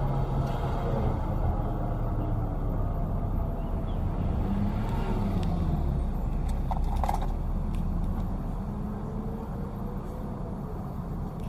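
Diesel engine of heavy roadworks machinery running, a steady low rumble whose pitch drifts up and down with the throttle, fading a little towards the end.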